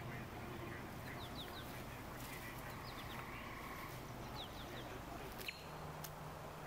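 Small birds chirping: short, quick falling chirps in a few clusters over a faint steady background.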